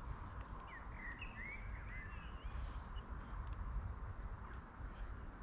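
Small birds chirping, a flurry of short sweeping calls in the first half, over a steady low rumble of outdoor background noise.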